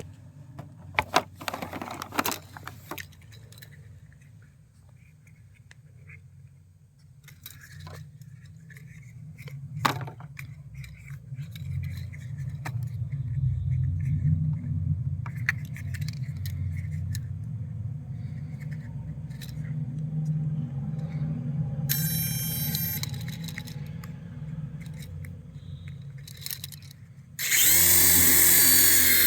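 Clicks, knocks and scraping from the toy and its packaging being handled, over a low steady hum. Near the end a toy RC helicopter's small electric motor starts up suddenly, with a loud high whine.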